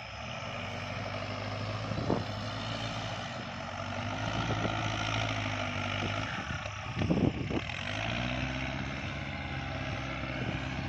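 Kubota tractor's diesel engine running steadily under load as it drives a rotary tiller through wet, sticky field soil. About seven seconds in there is a brief louder sound.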